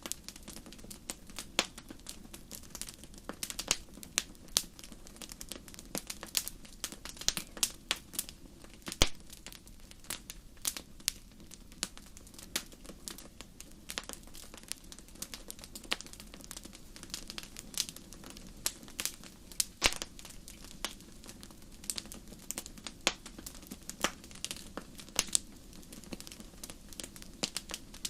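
Wood fire burning in a fireplace, crackling with irregular sharp pops several times a second over a low, steady rumble of flame.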